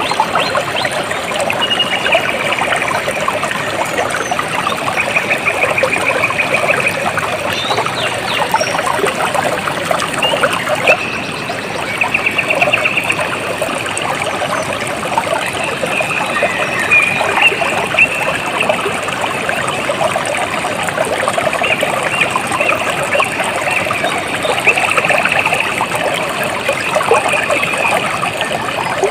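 Water trickling and splashing steadily over stones, a continuous dense babble. A high pulsing trill recurs several times over it.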